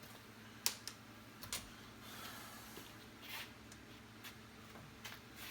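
A few light, scattered clicks and a brief scrape of hands handling small door-handle parts and hardware.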